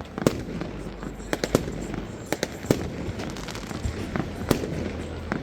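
Fireworks and firecrackers going off: a string of sharp, irregular bangs and cracks, several a second at times, over a steady din of distant bursts.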